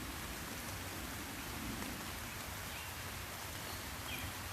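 Light rain of a sun shower falling steadily, an even hiss of raindrops.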